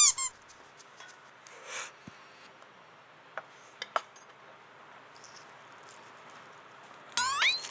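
Light clinks and taps of cutlery and dishes at a meal table, a few small scattered clicks. A short high tone sounds at the very start, and a quick rising whistle-like glide comes near the end.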